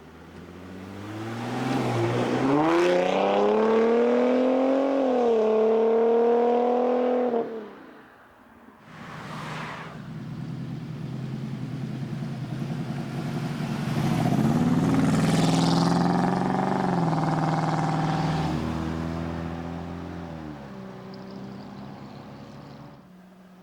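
Car engines accelerating hard with loud exhausts, two in turn. The first climbs in pitch, shifts gear about five seconds in, climbs again and cuts off suddenly. After a brief rush of passing noise, a second engine pulls away, revving up and then fading near the end.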